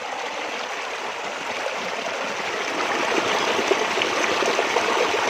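Small stream of running water, a steady rushing flow that grows somewhat louder about halfway through.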